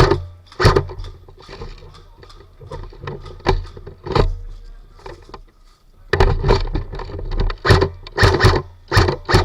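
Repeated thumps with rustling, a few scattered at first, then coming steadily about two a second for the last few seconds.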